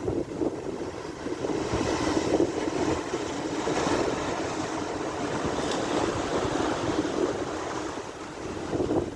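Strong gusty wind buffeting the microphone over the rush of rough sea waves breaking, with louder surges about 2 and 4 seconds in.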